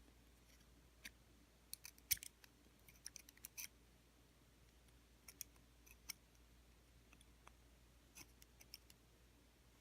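Faint, scattered sharp clicks and small taps in near silence, in a few short clusters: small metal motor parts and hand tools being handled during the teardown of a robot vacuum's small brushed DC motor.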